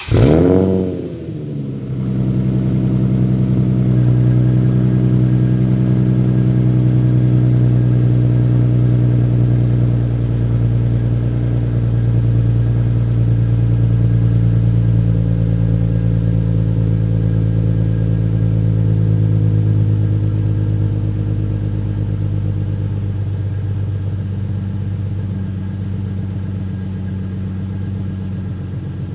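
Nissan 350Z Nismo's 3.5-litre V6 catches on a cold start through a Tomei Expreme Ti titanium exhaust. It gives a brief rev flare that falls away over about a second and a half, then settles into a steady, raised cold-start idle that eases slightly lower near the end.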